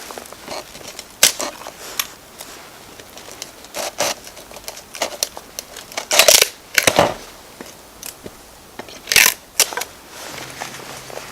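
Wood fire crackling and popping, with irregular sharp snaps, a few of them louder about a second in, around the middle and near the end.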